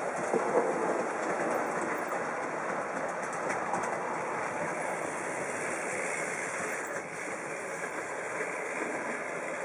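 H0-scale model train running on the layout's track: a steady rattling rumble of wheels on rails and motor, dipping slightly about seven seconds in.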